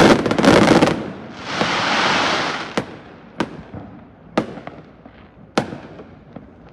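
Fireworks: a dense volley of bangs, then a rushing crackle swelling and fading about a second and a half in, followed by single bangs about once a second, thinning out and getting quieter as the display winds down.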